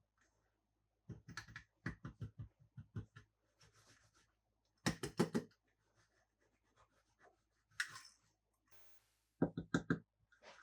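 Plastic toys being handled: groups of quick clicks and taps about a second in, around the middle and near the end, with short scratchy rustles between them.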